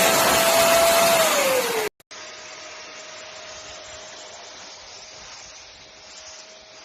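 Wet-and-dry vacuum cleaner motor running with a steady whine over a rush of air, the whine dropping in pitch a little over a second in as the motor winds down. After a brief break, a much quieter steady whine and hiss follows.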